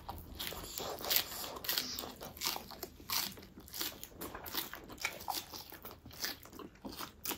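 Close-miked chewing and biting of dumplings and sausage: an irregular run of small wet mouth clicks and crunches.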